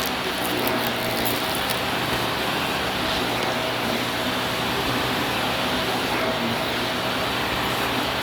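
Vacuum cleaner running steadily, a loud even rush of suction with a constant motor hum. A few light clicks and rattles come in the first couple of seconds.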